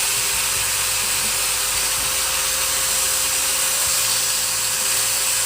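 A machine running steadily: an even hiss with a constant hum tone, unchanging throughout.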